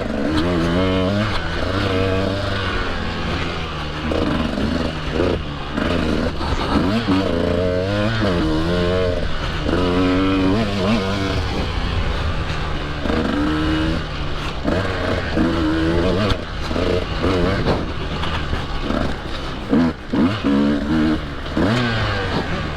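Husqvarna TE150 single-cylinder two-stroke dirt bike engine revving hard, its pitch rising and falling again and again as the throttle is worked through the gears on a woods trail.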